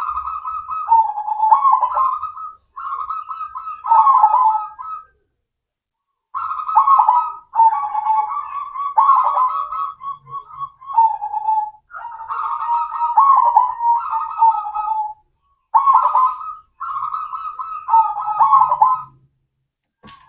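Zebra dove (perkutut) cooing its song: repeated rolling coo phrases of one to two seconds each, with brief pauses, the longest about five seconds in.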